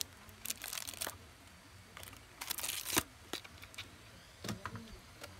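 Crinkling and rustling of plastic packaging with a few sharp clicks, as the small parts of a USB Bluetooth audio kit are handled.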